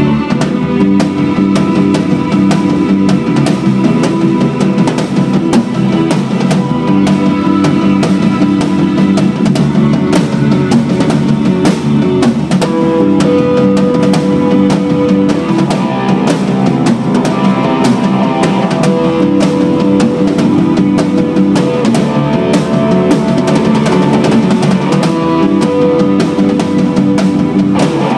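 Instrumental rock music: a full drum kit, kick drum and cymbals, playing a steady beat under electric guitar and bass.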